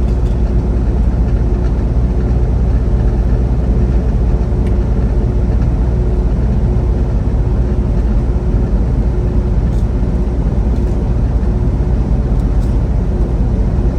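Steady drone of a semi truck's engine and road noise heard inside the cab while cruising on the highway, with a faint constant hum over it.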